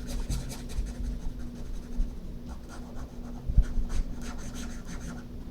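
Pen scratching on paper in quick, irregular shading strokes as a shadow is inked onto a drawing.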